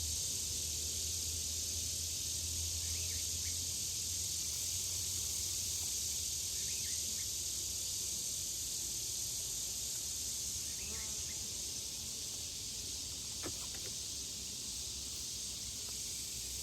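Steady hissing hum of honeybees working around an open hive, with a faint tap about thirteen seconds in.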